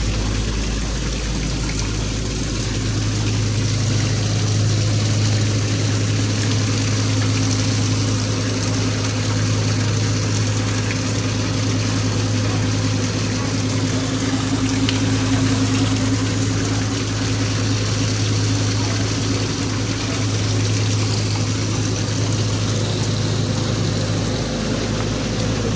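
A steady low engine hum, with a constant drone and a wash of water-like noise over it.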